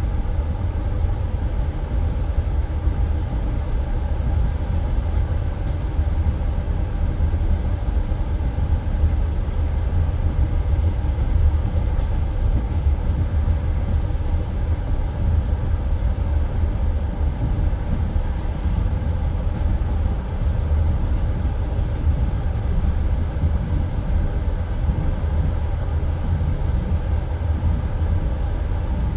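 Passenger train running between stations, heard from inside the carriage: the steady low rumble of its wheels on the rails.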